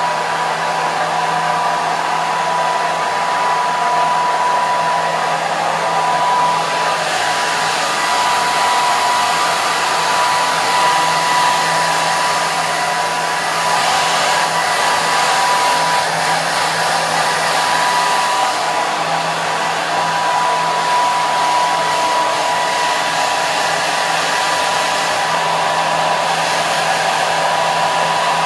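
Hair dryer running steadily: a continuous rush of air with a steady high motor whine and a low hum underneath.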